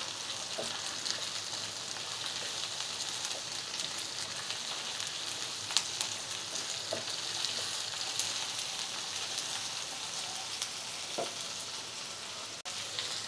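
Diced potato, flat beans and brinjal sizzling steadily in hot mustard oil in a nonstick kadai on a high-medium flame, with a few light taps of a wooden spatula stirring them.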